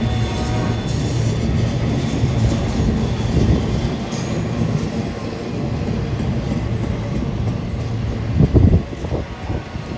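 BNSF intermodal train's cars rolling steadily past on the downgrade, a continuous rumble of wheels on rail. Wind buffets the microphone, with a heavy gust about eight and a half seconds in.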